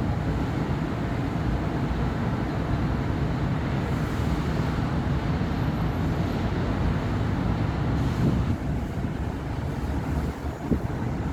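Steady city road traffic on a busy avenue: a continuous low rumble of passing cars and other vehicles, with a brief sharper knock near the end.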